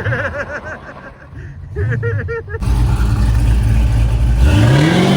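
Car engine being revved: a few quick blips that rise and fall, then a loud low rumble, and a rev climbing steadily near the end.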